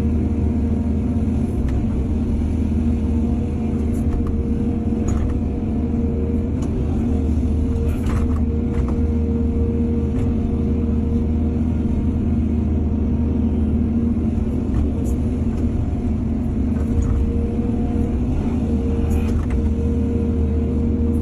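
Excavator's diesel engine running steadily under load, with a few short knocks and clanks about five, eight and nineteen seconds in.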